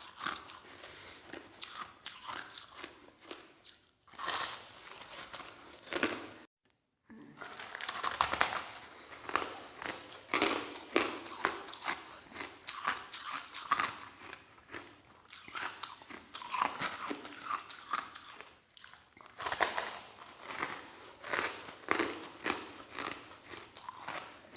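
A person chewing soft crushed ice close to the microphone: a continuous run of crackling crunches, broken by a short silent gap about seven seconds in.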